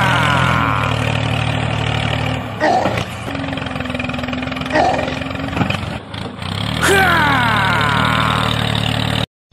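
Tractor engine sound effect running at a steady idle, dropping away for a few seconds in the middle, where a single steady hum and a few clicks take over. A falling, whistle-like glide comes about seven seconds in.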